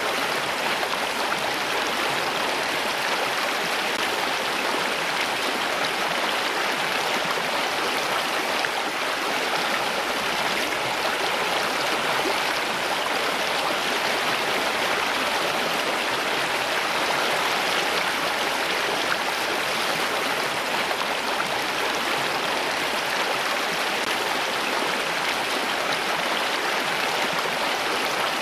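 Running water rushing steadily in an even, unbroken wash.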